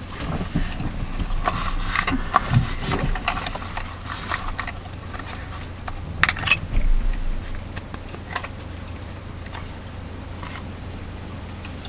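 Knocks, clicks and rattles of objects being handled, over a steady low hum. The handling is busiest in the first few seconds and again around six to seven seconds in.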